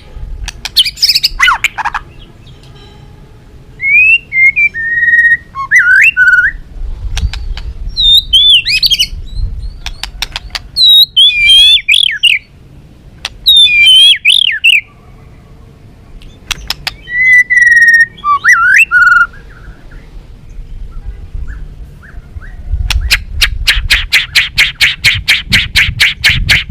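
White-rumped shama singing loud, whistled, warbling phrases of a second or two each, with short pauses between them. Near the end it switches to a fast run of rapidly repeated sharp notes.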